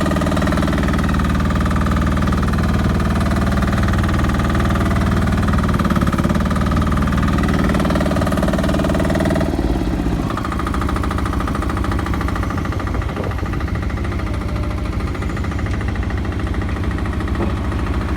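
Heavy diesel engine running steadily. About ten seconds in its revs drop, and it settles to a lower, pulsing idle.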